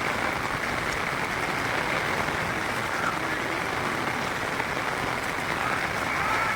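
Heavy rain falling, a steady even rushing noise with no let-up.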